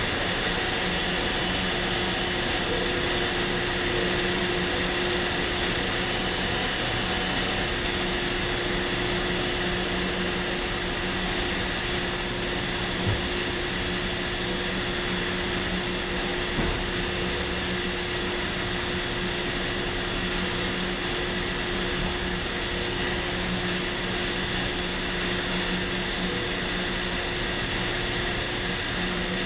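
Steady industrial machine drone, as recorded at a waste incinerator: a constant hiss with several held hum tones that never change in pitch or level. Two faint knocks sound in the middle.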